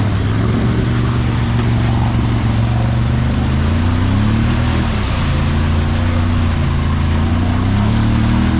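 Side-by-side UTV engine running under load, its pitch rising and falling twice as the throttle is worked, over a steady hiss.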